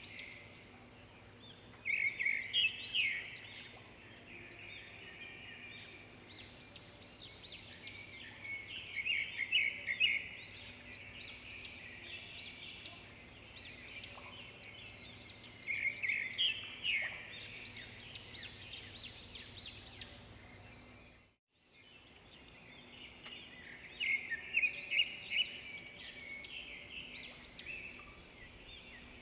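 Several small birds chirping and singing over a faint steady hum, with one bird repeating a louder, quick run of notes about every seven seconds. The sound dips briefly to silence a little past two-thirds of the way through, then comes back.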